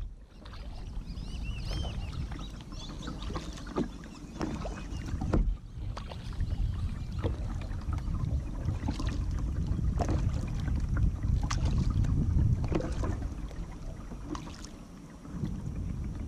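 Kayak paddle strokes splashing into the water about every second and a half, with wind rumbling on the microphone.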